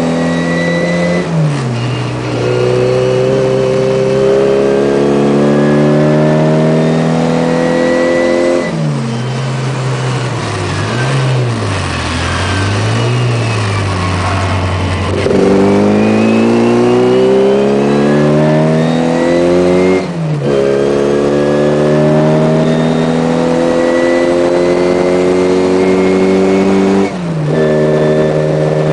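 Tuned classic Mini's A-series four-cylinder engine, heard from inside the car at racing speed, revving up through the gears in rising sweeps with several sudden drops in pitch at gearchanges. Midway it runs at lower, wavering revs for a few seconds, then pulls hard again.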